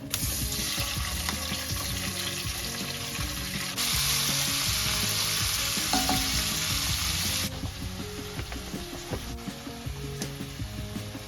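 Food frying with a steady sizzle over a wood fire. The sizzle gets louder about four seconds in and drops back suddenly a few seconds later, with quiet background music underneath.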